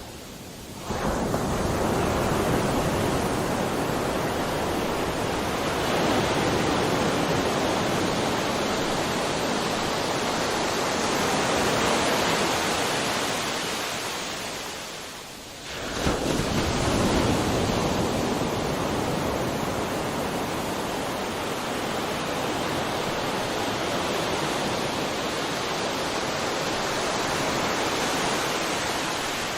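Ocean waves breaking and washing up the shore. Two breakers about fifteen seconds apart, one about a second in and one about halfway, each followed by a long fading wash.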